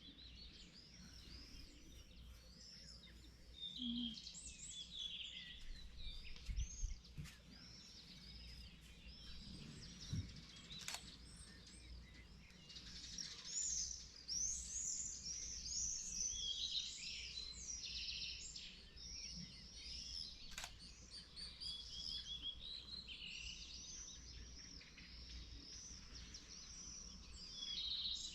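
Morning chorus of several small birds singing and chirping at once: dense, overlapping short trills and twitters, busiest in the second half. Under it runs a faint steady low rumble, with a few brief clicks.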